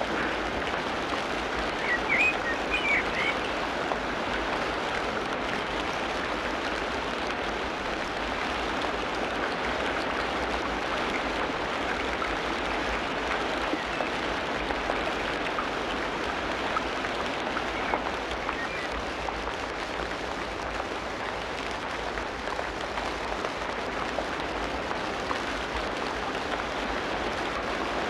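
Tropical rainforest ambience: steady rain falling on foliage, with a few brief high chirps about two to three seconds in.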